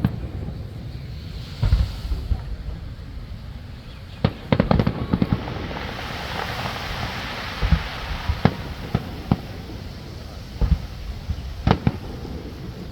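Nagaoka aerial fireworks going off: separate sharp booms, several in a quick cluster, with a stretch of dense crackling from crackle-effect shells in the middle.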